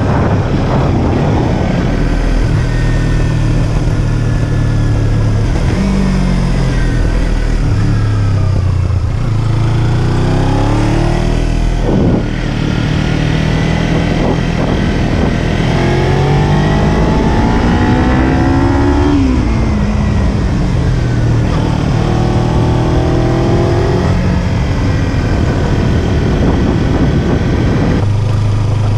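Kawasaki Z300 motorcycle's parallel-twin engine pulling through the gears. Its pitch climbs, drops back at each shift and climbs again, several times over, with one longer fall as it slows about two-thirds of the way in.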